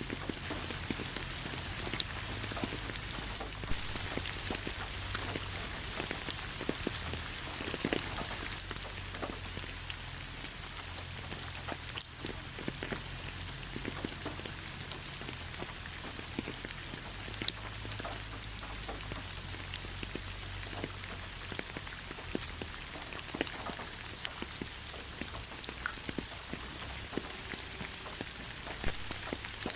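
Steady rain, with many individual drops pattering and ticking on a surface over a constant hiss.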